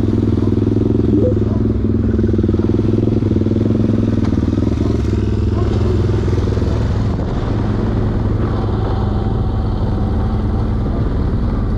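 Single-cylinder pit bike engine running steadily: an even, low drone with no change in revs.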